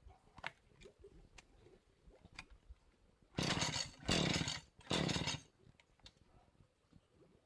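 Three harsh rasping strokes of about half a second each, close together past the middle, with a few light knocks before and after.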